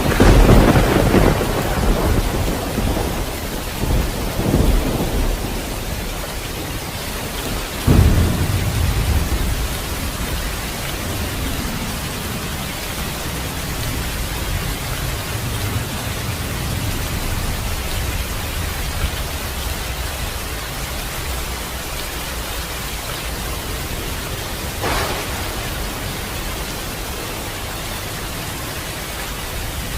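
Steady heavy rain with thunder: a loud rumbling peal right at the start, a sharp crack about eight seconds in that rolls away slowly, and a fainter rumble near the end.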